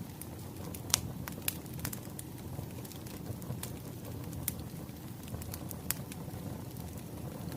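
Wood fire crackling: irregular sharp pops and snaps, one louder pop about a second in, over a steady low rumble of burning logs.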